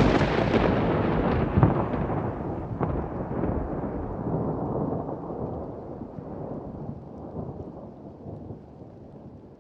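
A thunderclap: a sudden crack, then a long rolling rumble that slowly fades away, with a couple of sharper cracks within the first three seconds.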